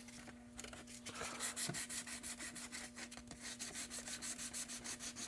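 Hand sanding a plastic RC truck body with fine sandpaper over glazing putty filler: quick, even back-and-forth rubbing strokes.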